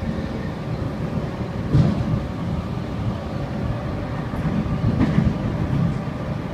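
Sydney Trains C-set double-deck electric train running along the track, heard from inside the rear carriage: a steady rumble with two louder thumps, about two and five seconds in.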